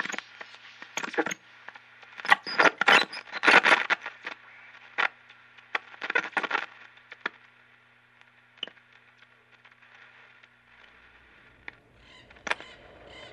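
Sharp clicks and scrapes in quick, irregular runs for the first seven seconds or so, then only a few isolated clicks, over a faint steady electrical hum that stops about eleven seconds in.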